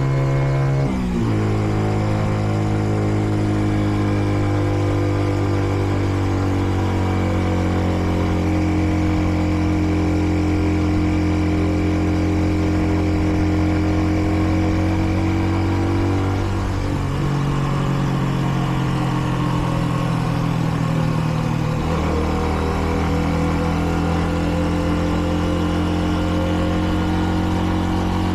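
Kreidler Dice CR 125 motorcycle's 125 cc engine running under way, a steady engine note that drops abruptly about a second in, again a little past halfway and once more later, as with gear changes or easing off the throttle. The bike is still being run in, with under 400 km on it.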